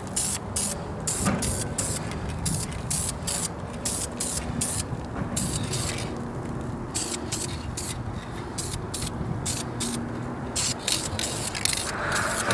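Aerosol spray paint can hissing in short repeated bursts, about two a second, with a brief pause around the middle, laying a light first coat of paint on an engine.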